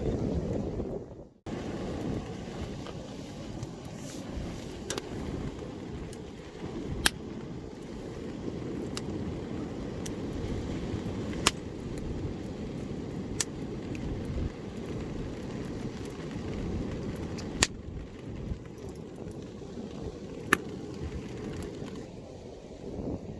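Strong wind rumbling and buffeting, with five or six sharp clicks or snaps scattered through it. An abrupt cut about a second and a half in switches to a somewhat quieter rumble.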